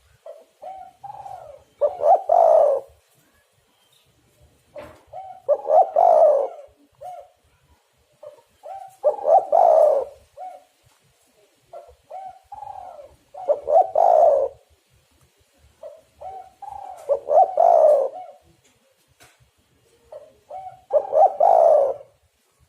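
Spotted dove cooing its song over and over: six phrases about four seconds apart, each a few short soft notes leading into a loud, burry coo. It is the repeated territorial song used to lure and set other spotted doves singing.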